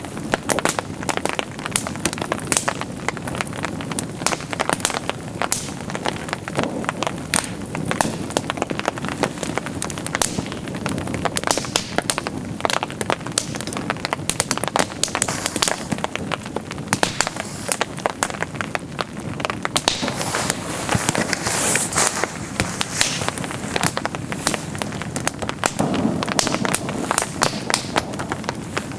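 Heavy rain: a dense, irregular stream of sharp drop impacts over a steady hiss.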